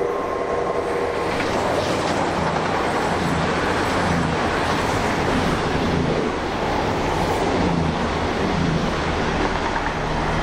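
A train passing close by at speed: a loud, steady rush of wheel and rail noise.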